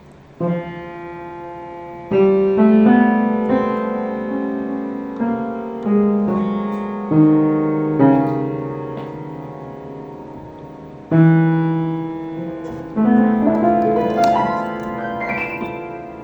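Slow solo piano music: single notes and chords struck at an unhurried pace, each left to ring and fade, beginning about half a second in.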